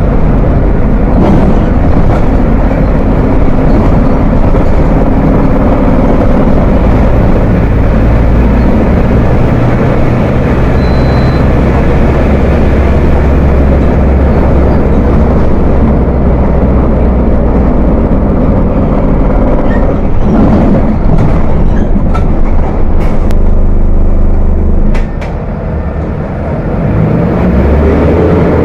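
Diesel engine of a Volkswagen 17.230 OD bus running under way with a deep rumble. The level dips for a moment about 25 seconds in, then picks up again.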